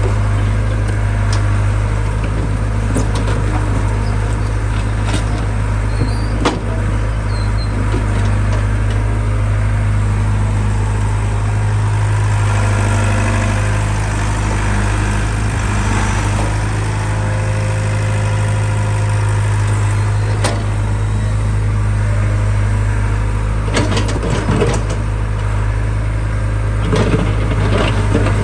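JCB 3DX Super backhoe loader's diesel engine idling steadily, with a few short clatters and knocks about six seconds in and again near the end.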